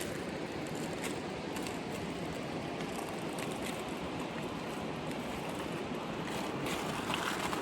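Creek water running, a steady rushing sound.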